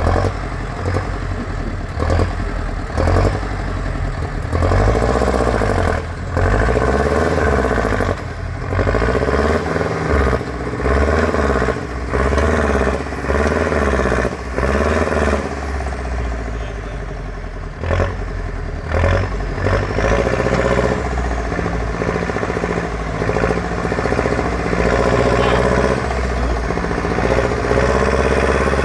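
Competition trial truck's engine revving in repeated throttle bursts, its pitch rising and falling again and again as it works the off-road course.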